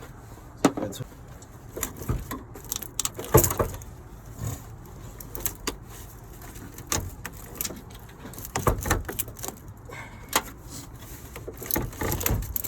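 Irregular clinks and knocks of metal hand tools and parts being handled, a few louder knocks among lighter rattles.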